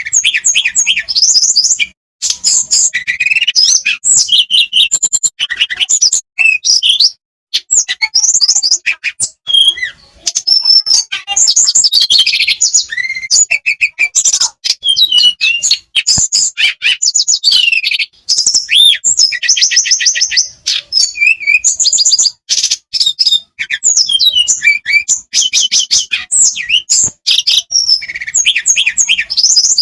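Blue flycatcher singing a loud, almost unbroken song of quick, varied whistled phrases and rapid trills, with only brief gaps.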